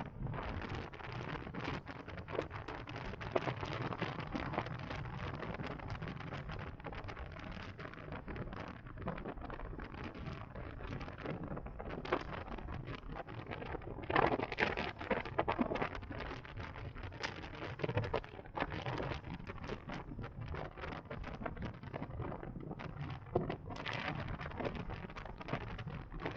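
Wind rushing and buffeting over the microphone of a moving electric motorcycle, a steady rush full of crackling gusts over a low road rumble. The gusts are loudest a little past the middle and again near the end.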